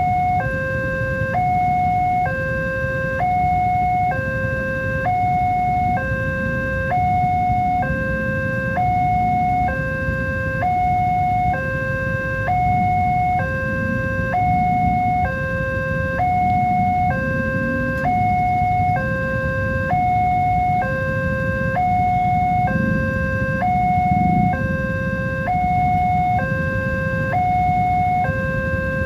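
Level-crossing warning alarm sounding continuously: an electronic two-tone signal alternating evenly between a higher and a lower note, warning that a train is approaching. A low rumble runs underneath, swelling at times.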